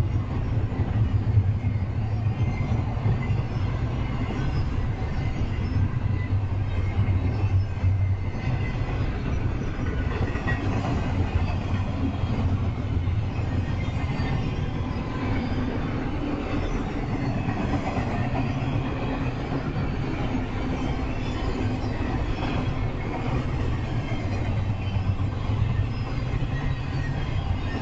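Double-stack intermodal freight train's loaded container well cars rolling past steadily: steel wheels running on the rails in an unbroken low rumble.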